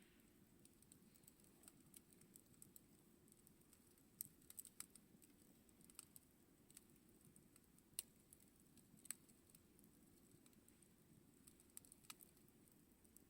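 Campfire burning with faint, irregular crackles and small sharp pops scattered throughout, a few slightly louder snaps among them.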